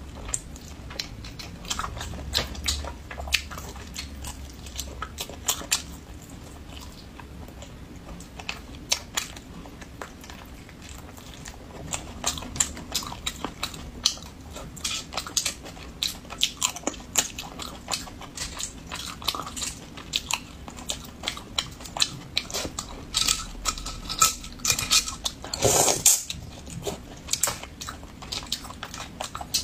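Close-miked mouth sounds of a person biting and chewing braised beef rib meat, a run of many small sharp clicks. Near the end come louder clatters of metal tongs in a glass bowl.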